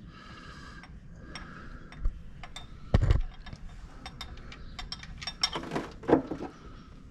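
Scattered light metallic clinks and clicks, with one dull knock about three seconds in, from the oil drain plug and tools being handled as the plug is worked out of the oil pan.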